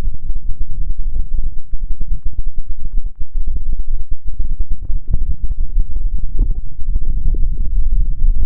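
Hands cupping and rubbing over the ears of a binaural ASMR microphone, giving a loud, muffled, low rumble with dense irregular rustling.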